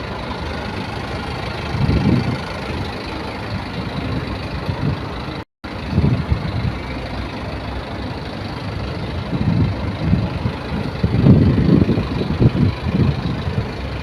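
An engine running steadily, with irregular low rumbles rising and falling over it.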